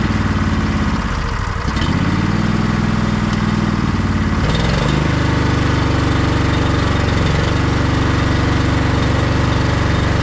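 Sabre by John Deere lawn tractor's engine running on choke just after starting, its speed sagging and picking up twice before settling into a steady run about halfway through. It fired up once a replacement starter solenoid was fitted, the solenoid having been the cause of the no-start.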